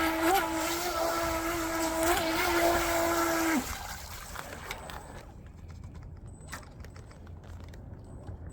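Eachine EBT04 RC boat's brushless motor running at a steady high pitch on a 2S battery, with a few brief wobbles in pitch. The motor cuts off about three and a half seconds in with a short falling glide, leaving faint background noise and a few clicks.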